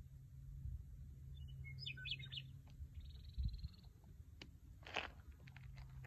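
Birds calling in open country: a quick cluster of chirps about two seconds in, a fast trill around three seconds in, and a louder sharp note about five seconds in, over a constant low rumble.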